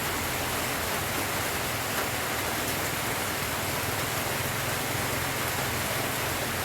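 Steady rain falling, an even hiss, with a faint low hum underneath.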